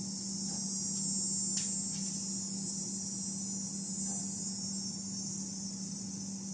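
Steady high-pitched drone of insects calling in chorus, over a steady low hum, with a few faint clicks about a second and a half in.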